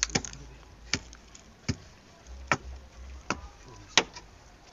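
Repeated hard strikes of a tool pounding something, about seven sharp blows a little under one a second.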